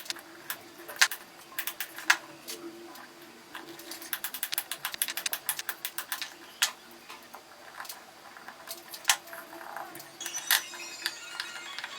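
Irregular sharp clicks and taps of hand tools working wood, coming in quick flurries with a few louder knocks, over a faint steady hum.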